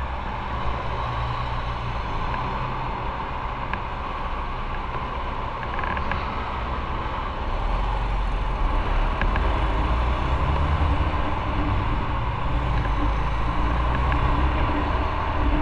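Motorcycle riding along, its engine running under a steady rush of wind noise on the microphone, growing louder about halfway through.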